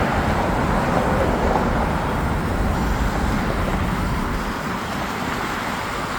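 Street traffic noise and wind rumble while riding a bike through city streets, with no distinct single event. The deep rumble drops off about four and a half seconds in.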